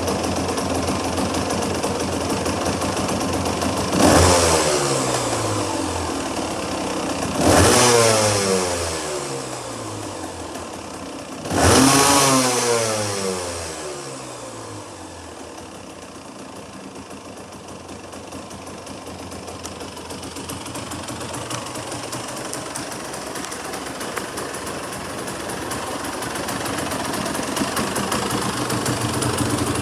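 Yamaha MTX200R's two-stroke single-cylinder engine idling and blipped three times, each rev rising sharply and then falling slowly back to idle. It settles into a steady idle for the rest of the time.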